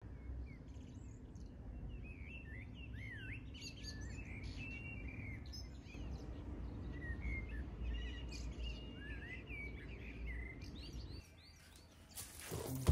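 Birds chirping in short calls that glide up and down, over a low steady background hum; both cut off about eleven seconds in.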